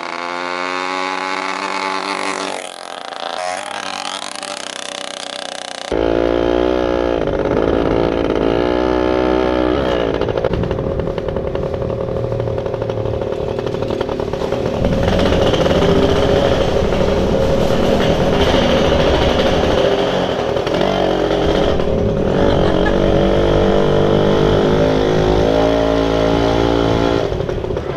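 Dirt bike engine running and revving, its pitch climbing several times, with a sudden change of recording about six seconds in, after which the engine runs on more steadily.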